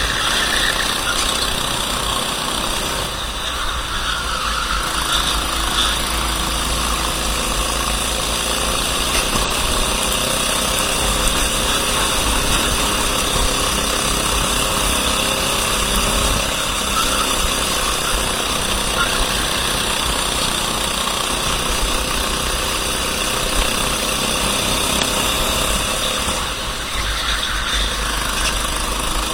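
Racing kart engine running steadily at speed, with the sound easing briefly a few seconds in and again near the end.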